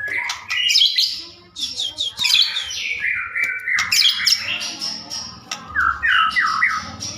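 White-rumped shama (murai batu) singing without pause: a rapid run of varied whistles, sliding notes and chattering phrases.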